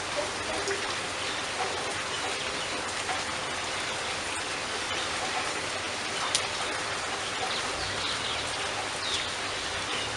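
Steady rain falling on leaves: a dense, even hiss of drops with individual drips ticking through it, and one sharper drip about six seconds in.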